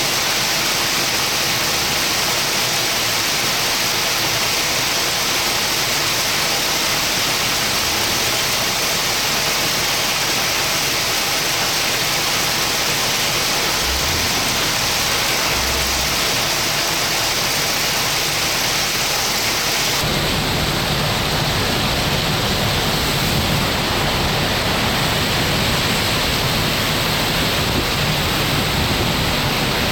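Heavy rain pouring steadily as a dense, even hiss. About twenty seconds in, the sound shifts abruptly to a deeper wash with more low rumble.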